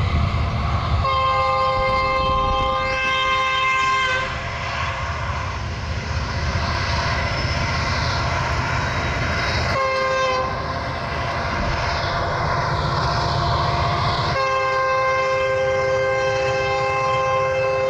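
Diesel freight locomotive's horn sounding three blasts, long, short, then long, over the steady rumble of the passing train.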